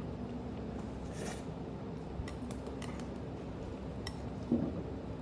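Eating utensils clinking against dishes at a meal, a few sharp clinks over a steady restaurant background hum, with one short louder knock near the end.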